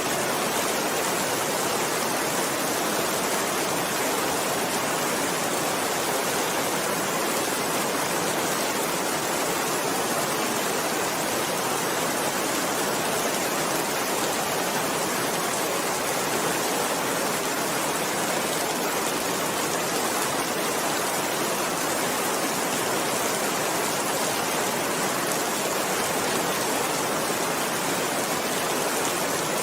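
Steady rain falling, an even unbroken hiss with no thunder or single drops standing out.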